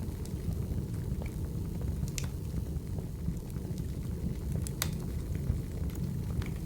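Wood fire burning: a steady low rumble of flames with a few sharp crackles and pops from the burning logs, the clearest about two and five seconds in.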